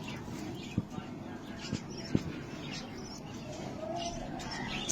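Pied budgerigars chirping and chattering in short, scattered chirps, with a warbling call about four seconds in and a few low knocks.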